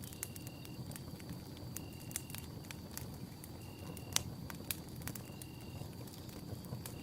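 Campfire of burning wood crackling: scattered sharp pops over a low rumble, with one louder pop about four seconds in. Underneath run a steady high tone and a short high note that repeats about every second and a half.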